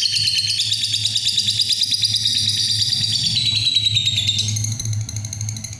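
Lovebird giving its long 'ngekek' song: an unbroken stream of rapid, high chattering notes that slowly falls in pitch and softens a little near the end. A faint low hum sits underneath.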